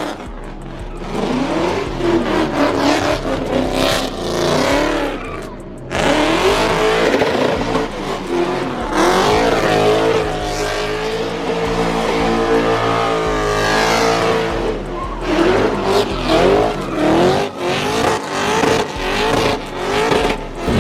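Car engines revving again and again, pitch rising and falling, with one long rev climbing and held high for several seconds around the middle.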